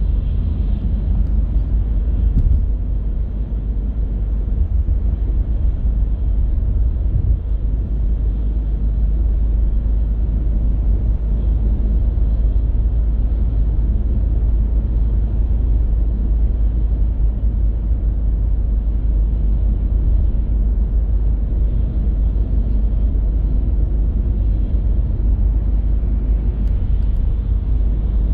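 Steady low rumble of a car driving along the road: engine and tyre noise, with no distinct events.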